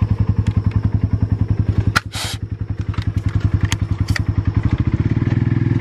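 Helicopter rotor beating in a fast, steady rhythm, with a few sharp clicks and a short rush of noise about two seconds in. The beat shifts slightly about five seconds in.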